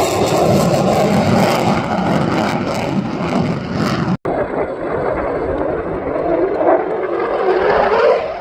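Loud jet roar from an F-35A Lightning II's Pratt & Whitney F135 afterburning turbofan as it manoeuvres during a flying display. It cuts out for an instant about four seconds in, then comes back duller and swells near the end before easing off.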